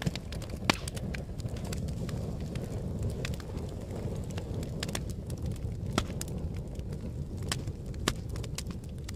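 Fire burning with a steady low rumble and scattered sharp crackles and pops, the loudest coming about a second in and again around six and eight seconds in.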